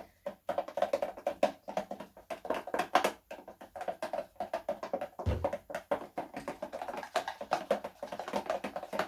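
Homemade slime being stirred in a bowl: rapid, irregular clicks and squelches.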